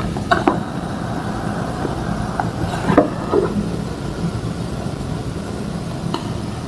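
A few short, crisp crunches of homemade gym chalk being crushed and crumbled by hand, over a steady low rumble of background noise. The crunches come just after the start, around three seconds in, and near the end.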